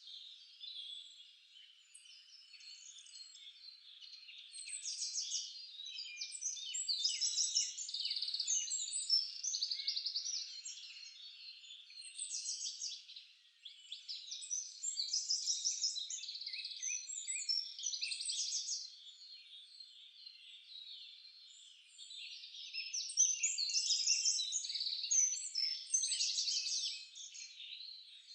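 A chorus of several forest songbirds singing at once, dense overlapping chirps and rapid trills that swell and fade in waves, loudest in bouts around a quarter, half and most of the way through.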